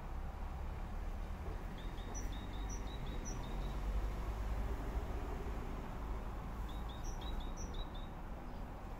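Small birds giving short, high chirping calls in two quick runs, one a couple of seconds in and one near the end, over a steady low background rumble.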